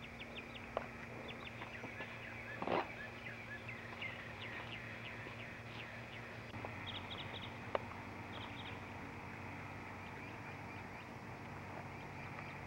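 Small birds chirping: many short, high calls, some in quick runs of three or four notes. A brief louder noise comes about two and a half seconds in, over a steady low hum.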